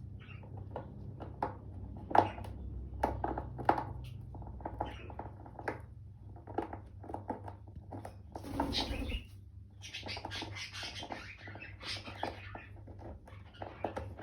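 Female Indian ringneck parrot scratching and digging at the wood of her nest box, a run of irregular sharp scratches and taps with longer scraping rushes about nine seconds in and again a little later. She is busy shaping her nest in breeding season.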